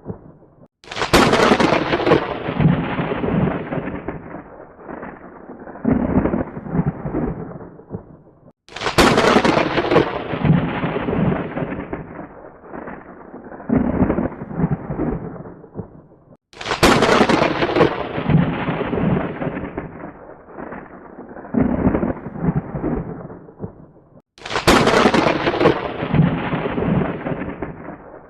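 Thunder: a sharp thunderclap cracks suddenly and rolls into a rumble that dies away. The same clap repeats four times, about every eight seconds, as a loop.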